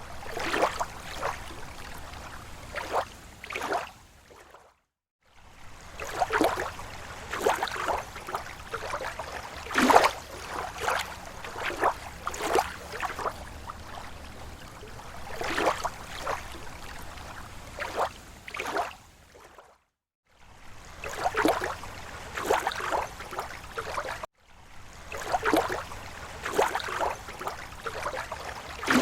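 Small slow waves lapping against a lake shore: irregular soft splashes and gurgles. The sound drops out to silence briefly three times.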